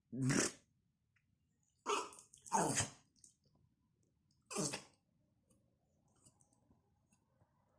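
A dog sneezing four times in short, sharp bursts, the middle two in quick succession.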